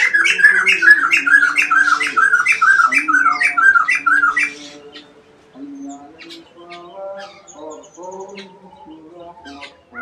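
Aviary bird giving a fast run of harsh, repeated squawking calls, about three a second, which stops about four and a half seconds in; quieter, scattered calls from other birds follow.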